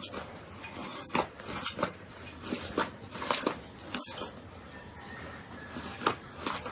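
Slime being squeezed and pressed by hand, making irregular squishing and crackling sounds with a few sharper pops.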